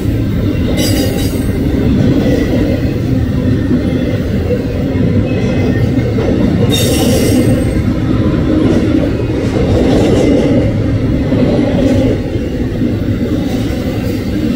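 Intermodal freight train's loaded well cars rolling past, a steady low rumble of wheels on rail, with two brief high-pitched wheel squeals about a second in and about seven seconds in.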